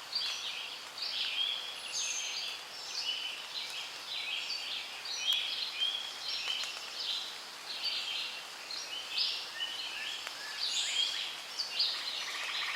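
A chorus of many birds chirping at once, short high calls overlapping one another.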